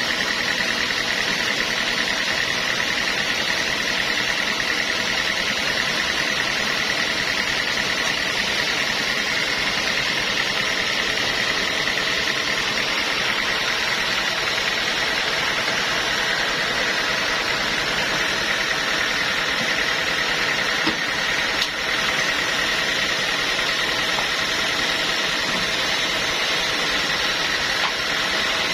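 Sawmill saw running steadily, with a constant high whine over an even mechanical noise.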